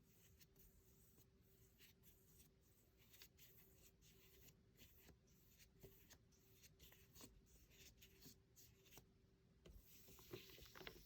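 Faint swishes of a flat brush dragging acrylic paint across canvas in quick repeated strokes, about two or three a second, with a louder flurry of strokes near the end.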